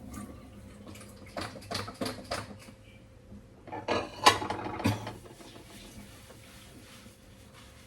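Dishes and cutlery knocking and clinking together, with a few separate knocks and then a louder clatter about four seconds in.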